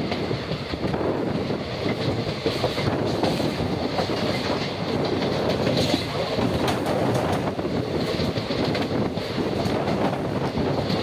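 Express passenger train running at speed, its coach wheels clattering over rail joints and points, with rushing noise from the moving train.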